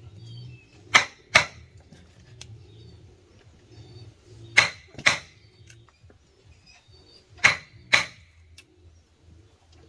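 Sharp knocks in pairs, about half a second apart, repeating three times with a pause of about three seconds between pairs, each with a brief ring: strikes on wood during hand woodworking.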